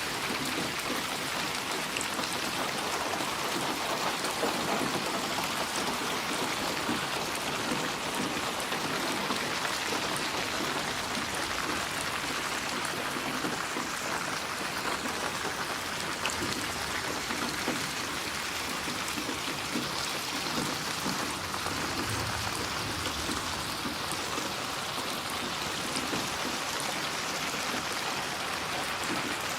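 Steady rain: a dense, even hiss of falling drops that holds at one level throughout.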